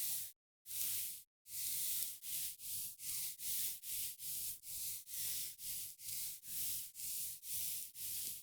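Close-up ASMR skincare sounds: soft hissing wiping or brushing strokes against the microphone in a quick steady rhythm, about two to three a second.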